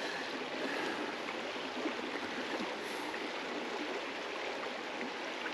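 River water flowing, a steady even hiss of current.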